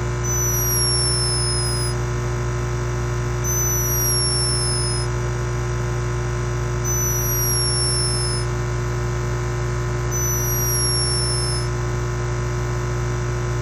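Steady electronic hum and hiss with a strong low drone. A faint high tone glides downward for a second or so, repeating about every three seconds.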